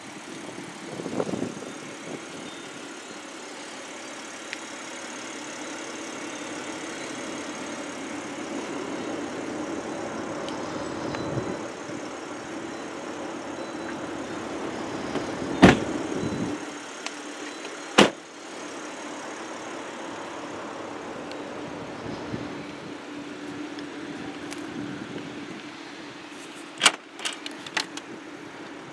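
2011 Audi A6 3.2's V6 engine idling steadily. Two sharp slams come a couple of seconds apart past the middle, and a few quick clicks near the end as the trunk is opened.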